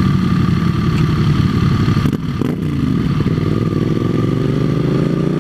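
Motorcycle engine running while riding, with a short dip a little after two seconds in, then its pitch climbing steadily as it accelerates.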